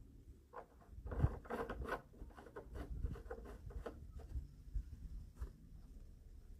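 Light clicks, scrapes and rustling from hands working on a lawnmower, busiest for a few seconds after the first second; the engine is not running.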